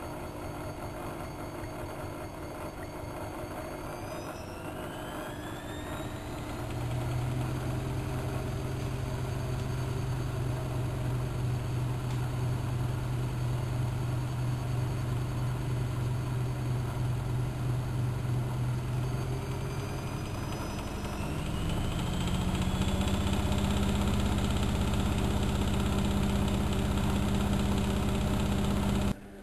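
Bauknecht WA1400 Dolphin washing machine running, its motor speeding up in stages: a steady hum sets in about six seconds in, then glides higher and louder past the twenty-second mark, with a rising whine. This is typical of the drum ramping up toward spin.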